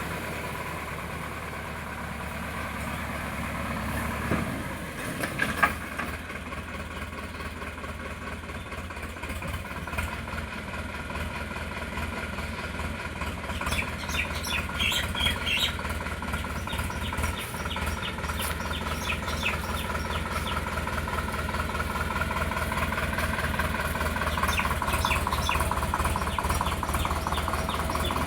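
Sonalika DI 750 tractor's diesel engine running steadily with a rapid, even beat, growing gradually louder.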